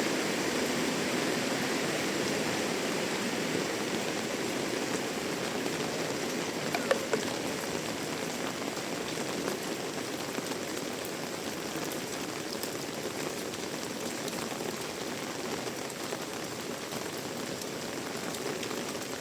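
Heavy rain falling steadily, a dense hiss that eases slightly over the stretch, with a couple of brief knocks about seven seconds in.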